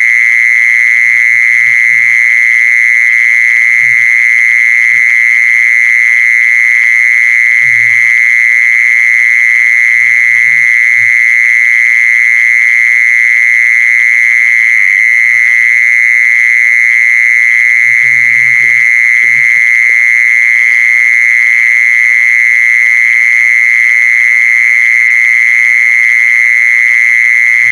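Mole cricket ('jeeson' insect) singing one continuous high trill at a steady pitch, unbroken throughout, with faint low knocks now and then.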